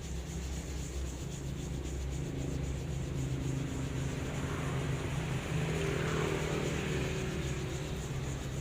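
Steady low engine-like hum, swelling a little around the middle and easing off again.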